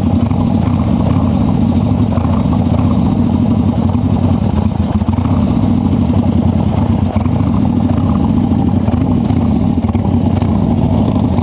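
Harley-Davidson Ironhead Sportster V-twin motorcycle engine running steadily at idle with the bike standing still.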